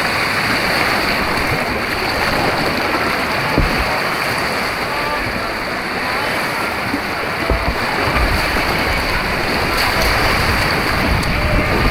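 Rushing white water on an artificial slalom course, a steady roar of churning water. Low rumbling joins in about two-thirds of the way through.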